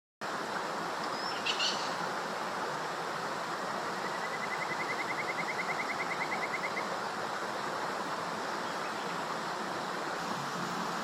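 Forest birdsong over a steady rushing background: a short high call about a second and a half in, then a rapid, even trill of about eight notes a second that runs for nearly three seconds.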